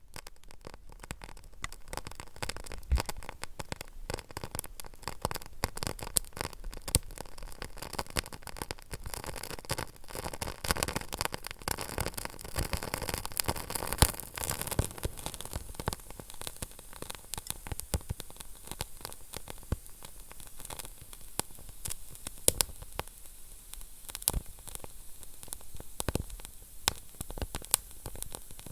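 Wood fire burning in a fireplace: continuous crackling and sharp pops over a steady hiss, busiest and loudest around the middle.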